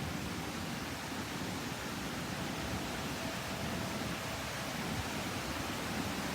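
Steady rushing of water from a large waterfall, an even wash of noise with no breaks.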